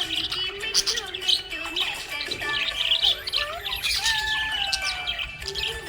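Budgerigars chirping and warbling continually, a busy run of short chirps, whistles and sliding notes.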